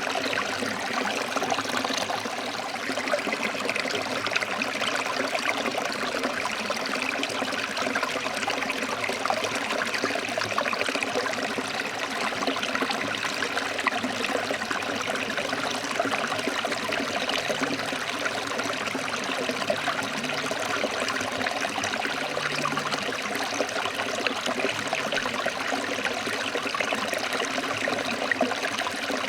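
Forest stream flowing over rocks: a steady, even rush of running water with a continuous trickle and splash.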